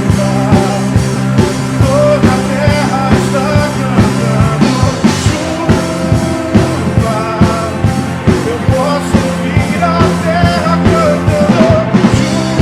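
Live worship band playing a rock-style song with drums on a steady beat, held chords and singing.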